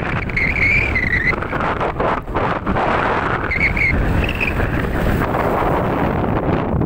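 Strong sea wind buffeting the microphone in a loud, gusty rush. Two brief high whistling tones cut through, about half a second in and again near the middle.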